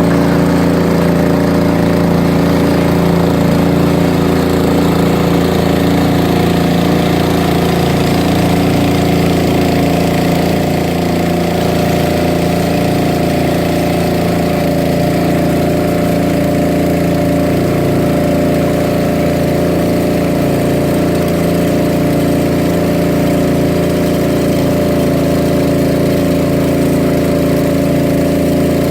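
Fishing boat's engine running steadily at an even pitch.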